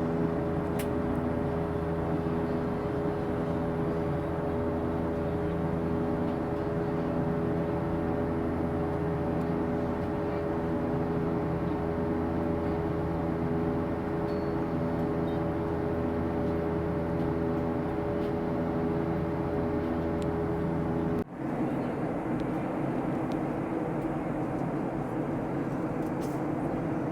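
Steady drone of an airliner cabin in flight: engine and airflow noise with a constant hum. It drops out for an instant about three quarters of the way through and resumes with a slightly different tone.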